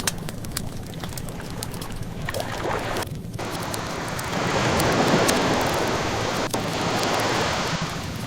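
Ocean waves washing ashore, one swelling up about halfway through and easing off near the end, mixed with the scattered pops and crackles of burning wood in a fireplace.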